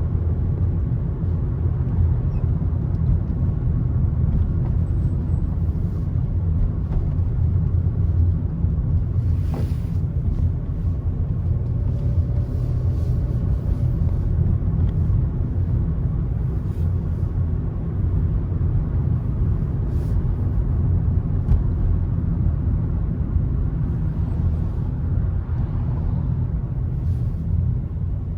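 A car driving steadily, its tyre and engine noise a continuous low rumble. A few faint brief ticks.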